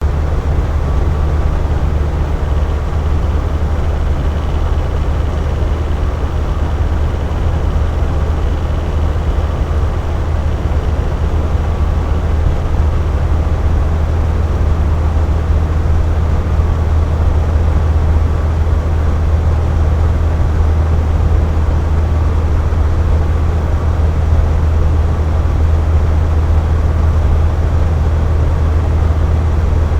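Box fan running steadily: a constant whooshing drone with most of its weight low, and a faint steady hum over it.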